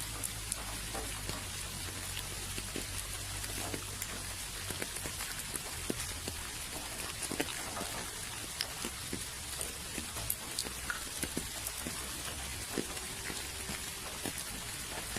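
Steady rain, a continuous hiss with many separate drops ticking sharply on a surface.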